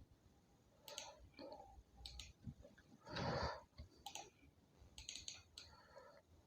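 Faint computer mouse clicks, a few at irregular intervals.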